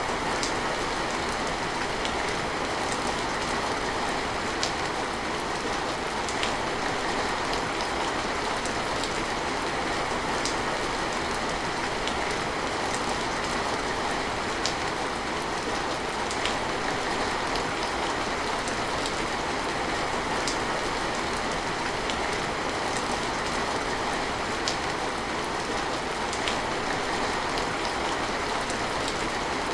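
Steady rain falling, an even hiss with scattered sharper drop ticks every second or two.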